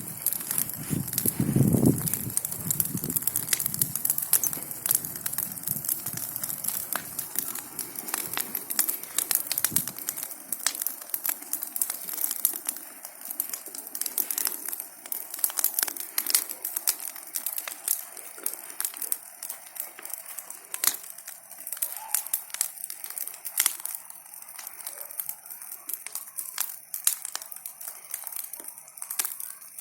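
Large bonfire of burning branches crackling, with a dense, irregular run of sharp snaps and pops. A low rumble sits under it for the first several seconds, then drops away.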